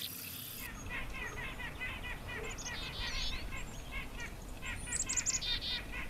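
Songbirds singing: a steady run of quick, evenly spaced chirps, with bursts of higher, brighter notes about three and five seconds in.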